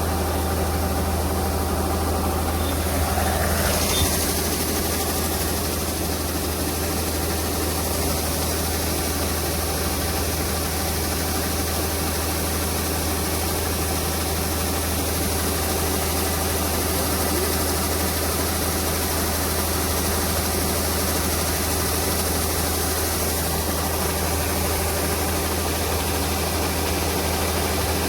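Diesel engine of farm harvesting machinery running steadily at a constant speed, with a brief louder moment about four seconds in.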